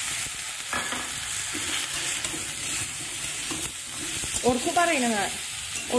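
Chicken pieces and chopped tomatoes sizzling in hot oil in a metal wok while a metal spatula stirs them, scraping the pan now and then.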